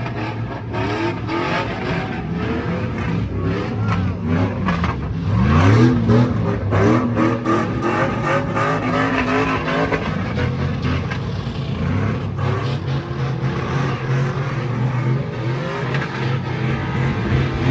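Car engines revving hard, pitch climbing and dropping again and again, the loudest rev about six seconds in: cars performing at a sideshow.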